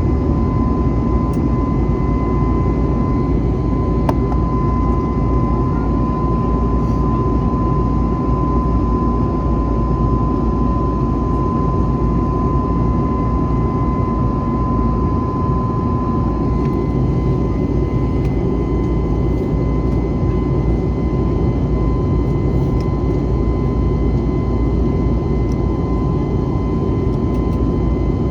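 Jet airliner engines heard from inside the passenger cabin: a loud, steady rush of noise with a steady high whine running through it, unchanging, as the plane climbs after takeoff.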